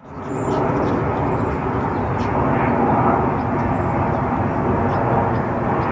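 Steady outdoor background roar that fades in at the start, with a few faint short high bird chirps over it.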